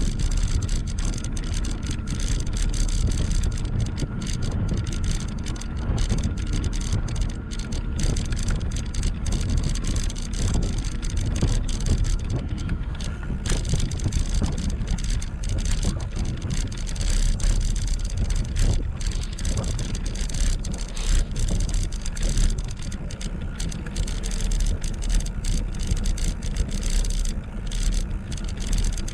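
Wind rumbling on an action camera's microphone while riding an e-bike, mixed with tyre and road noise, steady throughout; a faint steady whine runs underneath.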